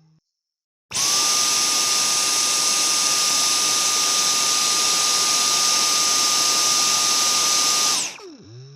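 Electric vacuum cleaner switched on about a second in. Its motor comes up to speed almost at once and runs steadily with a high whine. Near the end it is switched off and the motor spins down, its pitch falling.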